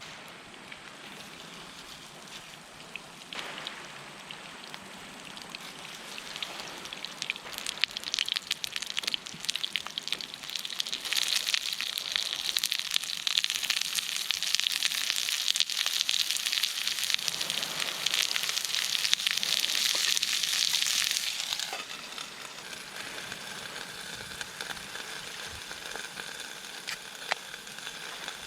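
Food sizzling in a pan over a campfire, a steady hiss that grows louder, peaks for about ten seconds mid-way, then drops back to a quieter sizzle.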